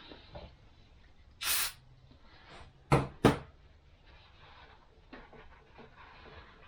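Parts being handled on a workbench: a brief hissing rustle, then two sharp knocks about a third of a second apart, the loudest sounds, followed by faint rubbing and small clicks.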